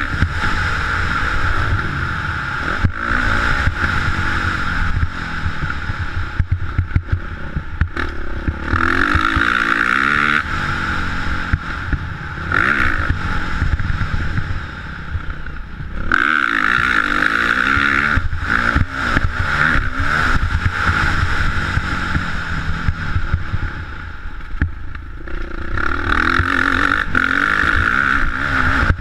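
Motocross bike engines revving on a dirt track, pitch rising and falling as the throttle opens and closes, in loud surges that come and go every few seconds.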